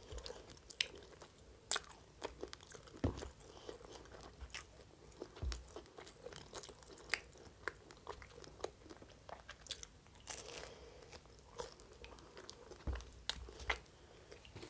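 A person chewing and biting into a crusty French hot dog bun: irregular crunches and wet mouth clicks.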